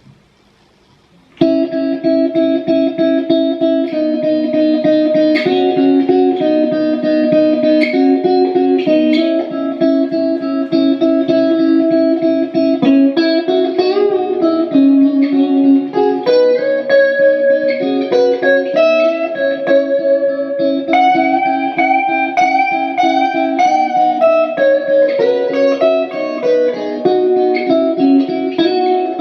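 Harley Benton ST-62 Strat-style electric guitar being played, starting about a second and a half in. It plays picked chords and single-note lines with several string bends.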